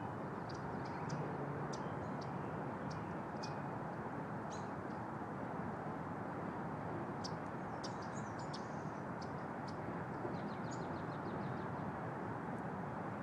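Scattered short, high bird chirps and peeps over a steady outdoor background hiss, with a quick run of rapid chirps about ten seconds in.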